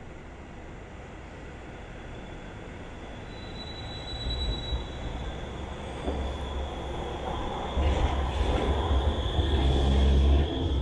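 Bombardier M5000 light-rail tram on the move, its low running rumble growing steadily louder as it comes closer, with a thin, steady squeal from the wheels on the rails.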